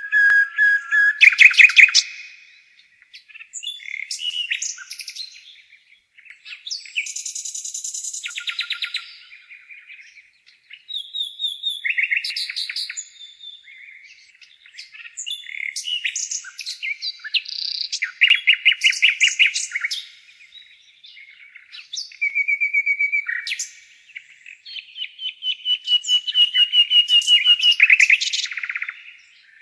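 Nightingale singing: a run of varied phrases, each one to three seconds long with pauses of about a second between them. The phrases are built from fast repeated notes, clicking rattles and clear held whistles.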